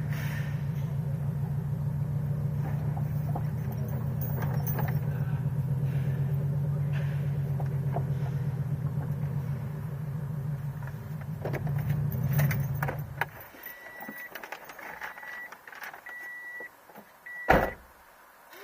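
Scion FR-S's 2.0-litre flat-four engine idling steadily, then shut off about thirteen seconds in. A warning chime beeps several times, and a car door shuts with a loud thump near the end.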